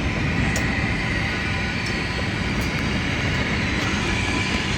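Freight train cars rolling past on the rails: a steady rumble with wheel and rail noise and a few faint clicks.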